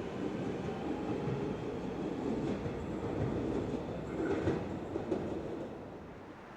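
Train running through the station, a steady rail rumble with a few sharp clicks from the wheels, fading away near the end as it moves off.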